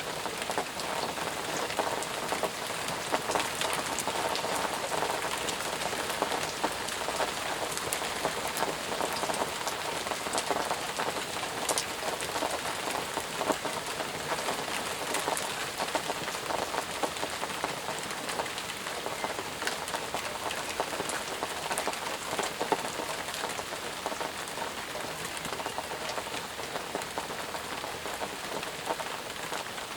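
Steady heavy rain falling and pattering on surfaces, with a dense hiss and many separate drips ticking through it.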